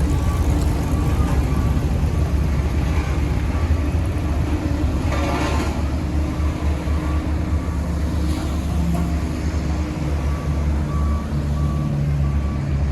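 Heavy diesel construction machine running with a steady low engine rumble while a reversing alarm beeps repeatedly. A brief hiss of noise comes about five seconds in.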